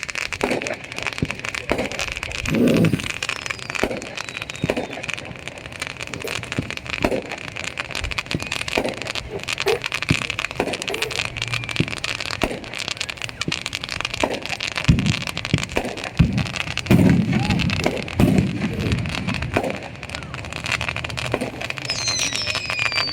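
Fireworks and firecrackers going off, a continual string of sharp pops and crackles with a few heavier bangs about three seconds in and again around seventeen to eighteen seconds in.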